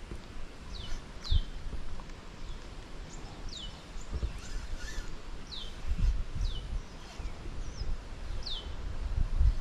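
A bird calling repeatedly: short, high notes, each sliding downward, about one every second, over low rumbles.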